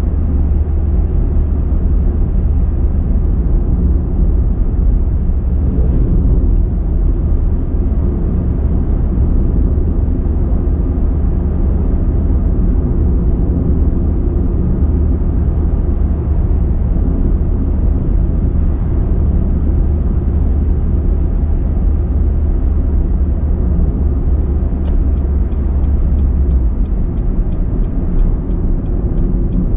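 Car driving: a steady, loud low rumble of engine and tyre road noise. A run of faint, evenly spaced ticks starts near the end.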